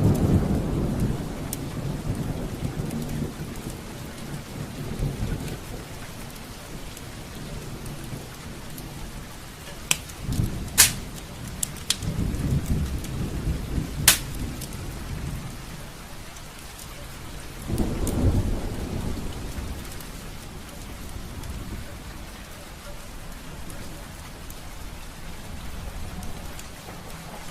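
Steady rain with thunder rumbling several times: at the start, around the middle and again about two-thirds in, each fading out. A few sharp cracks stand out near the middle.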